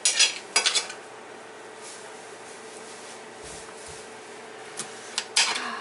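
Raw cauliflower being broken apart into florets: two sharp, crisp cracking crunches at the start and two more near the end.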